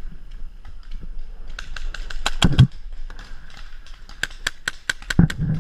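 Paintball markers firing: sharp pops in quick, irregular succession starting about a second and a half in, getting faster near the end, with a couple of heavier, closer thumps.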